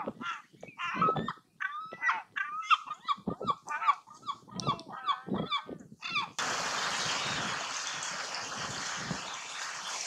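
Birds calling, many short overlapping calls that bend in pitch. About six seconds in this cuts off suddenly and gives way to a steady rushing noise with a few low thuds.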